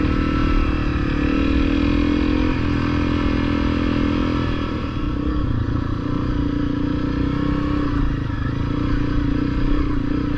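Honda CRF250L dual-sport motorcycle's single-cylinder engine running steadily while the bike rides along a dirt trail. The engine note shifts slightly a couple of seconds in and again about halfway through.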